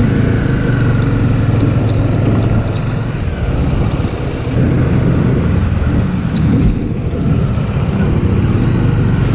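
Bajaj Dominar 400's single-cylinder engine running as the motorcycle is ridden, its note easing off and picking up again a couple of times, with some wind on the microphone.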